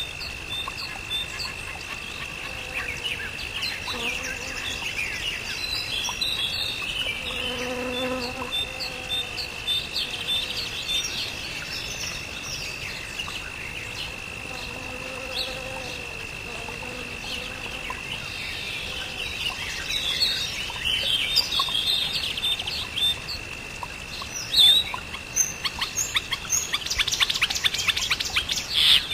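Outdoor wildlife chorus: a steady high-pitched insect trill with many birds chirping over it. A few low calls come in about 8 and 15 seconds in, and a fast run of clicking chatter comes near the end.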